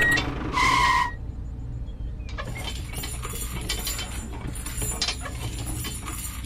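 A short steady beep just after the start. Then rapid light metallic clicking and clinking over a steady low hum, like a small mechanism at work.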